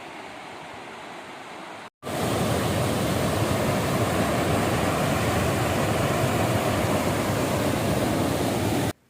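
Waterfall water rushing steadily. Two edited takes are joined by a brief dropout about two seconds in: a fainter one first, then a much louder, closer one that cuts off abruptly near the end.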